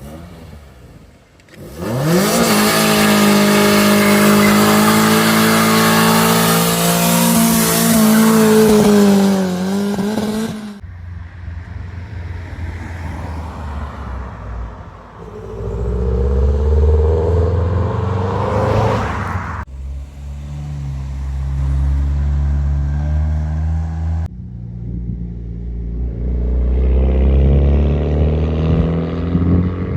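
Modified cars' engines revving and pulling away one after another. The first revs up sharply and is held high and very loud for about eight seconds. Lower exhaust rumbles follow, with shorter rises in revs as further cars accelerate.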